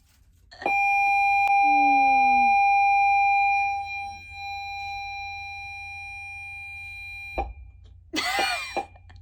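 A steady, high-pitched electronic-sounding tone that starts abruptly, holds one pitch for about seven seconds, drops in level partway through and cuts off sharply. A short falling tone sounds about two seconds in.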